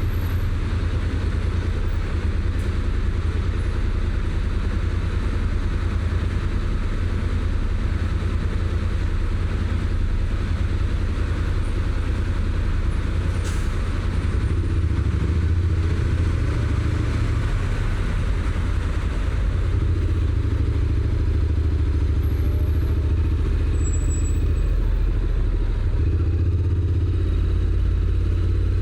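Honda NC750X's parallel-twin engine running steadily through its stock exhaust, a low engine note with small changes in load.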